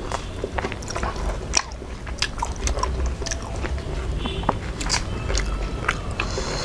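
Close-miked eating sounds: mouths chewing and biting fried fish and rice, with many irregular wet clicks and smacks.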